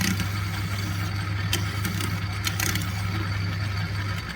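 Metal lathe running steadily with a hand file stroked against the spinning workpiece, giving a few short scrapes. Near the end the lathe's hum stops as it is switched off and starts to run down.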